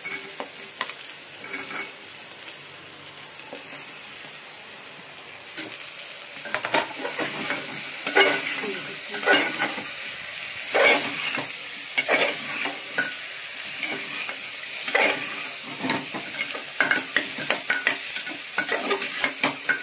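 Vegetables and masala sizzling in hot oil in an aluminium pressure cooker. From about six seconds in, a steel ladle stirs and scrapes against the pot in quick, irregular strokes over the steady sizzle.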